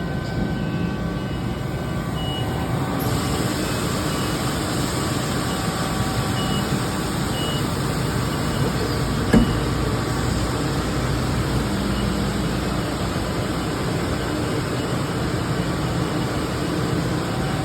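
Steady mechanical background noise of a machine shop, with one sharp knock about nine seconds in.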